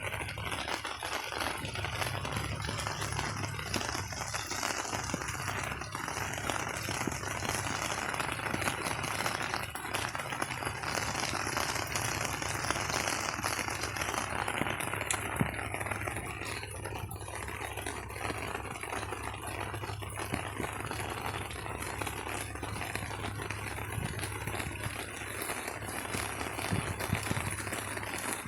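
Steady rain falling: an even, dense patter of many small drops, with a low steady rumble underneath.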